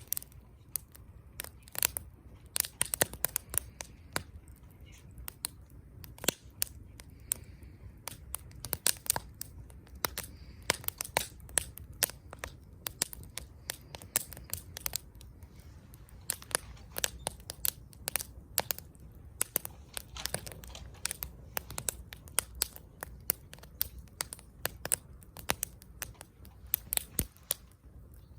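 Wood fire crackling: many sharp, irregular snaps, some much louder than others, over a faint low rumble.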